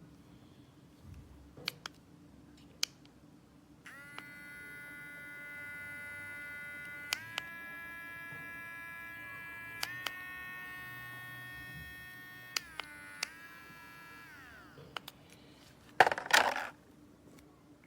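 YABIFE electric dog nail grinder's small motor running with a steady high whine. It steps up in pitch twice as its speed button clicks, then steps back down and winds down as it is switched off. A short loud noise burst follows near the end.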